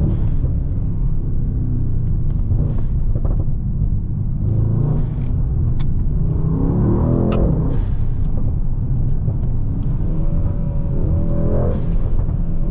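Brabus Rocket GT 900's engine running on the move, a steady low rumble with its pitch rising and falling as it accelerates about six seconds in and again near the end.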